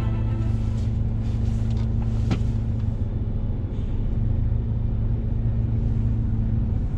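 Heavy truck's diesel engine running steadily, a deep drone with a constant hum above it. A short click about two seconds in.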